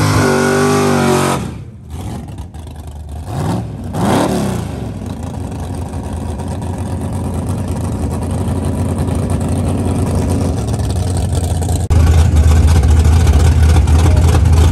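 A street drag car's engine revving up and down, then settling into a steady low rumble with another brief rev about four seconds in. About twelve seconds in, a louder, deeper engine rumble cuts in abruptly.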